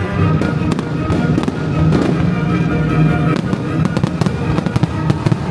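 Fireworks going off in rapid succession, sharp bangs and crackles, over music.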